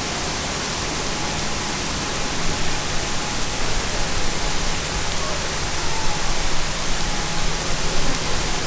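Torrential Florida downpour: heavy rain pouring down in a loud, steady hiss that turns a little more uneven after about two seconds.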